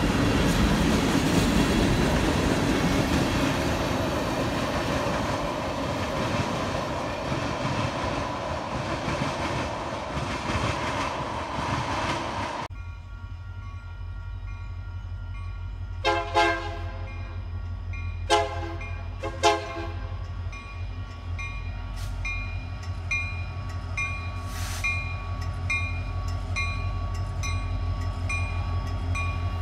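A train rolls past with a steady rumble and clatter of wheels on rail, which cuts off about twelve seconds in. After that a diesel locomotive hums low and sounds its air horn three times: one longer blast, then two short ones. A bell dings steadily about twice a second behind it.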